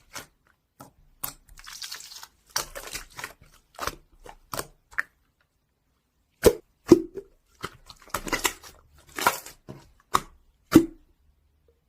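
Irregular crinkling and crunching handling noises, with several sharper knocks in the second half.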